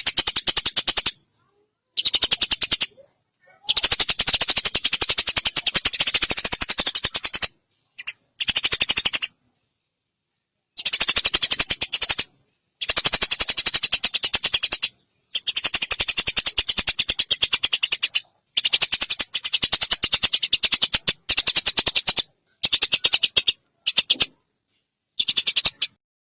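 Eurasian tree sparrows chattering in fast, dense trains of high chirps, in bursts of one to four seconds with short gaps between: the agitated calls of sparrows fighting.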